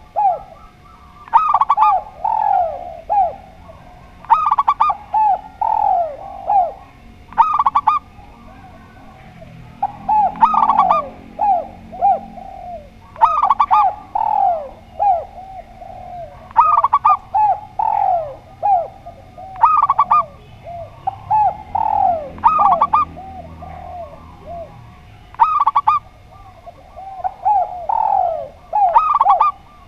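Spotted dove and zebra dove cooing. Phrase after phrase of short, falling coo notes repeats every second or two with hardly a pause.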